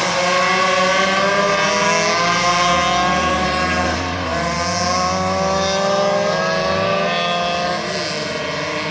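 Several minibike engines racing at once, their pitches overlapping and repeatedly rising as the bikes accelerate, then dropping as they back off.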